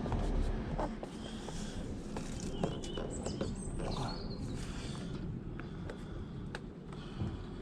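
Scattered light clicks and knocks of plastic door trim being handled and pushed into place, with small birds chirping a few times around three to four seconds in.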